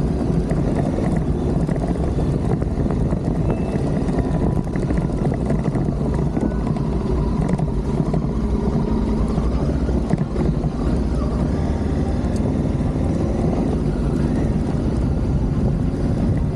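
Adventure motorcycle engine running steadily while riding, under heavy wind noise on the microphone.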